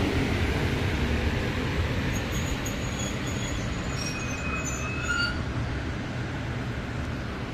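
Train running on rails: a steady rumble that slowly fades, with short high squeals from the wheels between about two and five seconds in.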